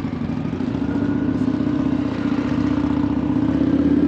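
Motorcycle engine running steadily, gradually getting louder.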